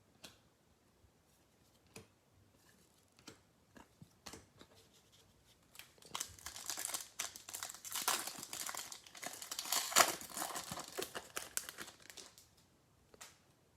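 A few light taps and clicks, then from about six seconds in some six seconds of crinkling and tearing: the wrapper of a pack of baseball trading cards being torn open and handled.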